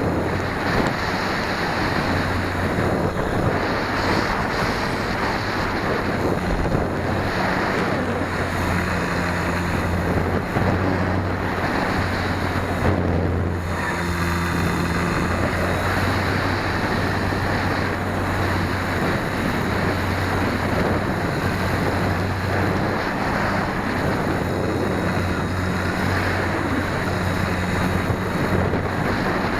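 Wind noise rushing over the microphone of an 808 #16-D keychain camera mounted on the tail of an RC Super Cub in flight, with a steady low drone from the plane's brushless electric motor and propeller underneath. The rushing eases briefly about halfway through.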